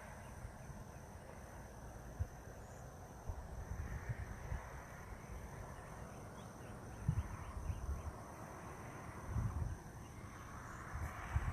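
Faint outdoor ambience: distant bird calls with occasional low bumps on the microphone.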